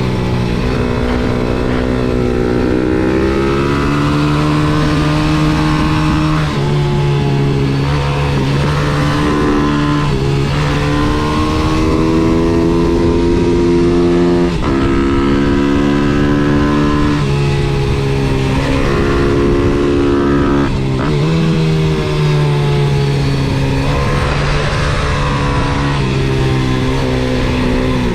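MRF 140 SM pit bike's 140 cc single-cylinder four-stroke engine under hard riding, its pitch rising, holding and falling over and over as it accelerates out of corners and slows into them. Brief sudden breaks in the engine note mark gear changes.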